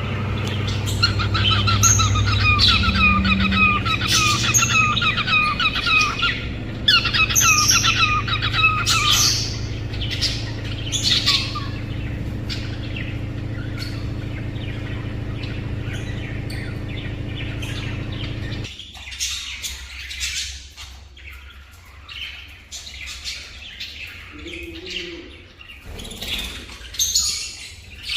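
Cockatiel whistling and warbling quick, repeated song phrases for about the first nine seconds, then giving scattered short chirps. A steady low hum runs underneath and cuts off suddenly about two-thirds of the way through.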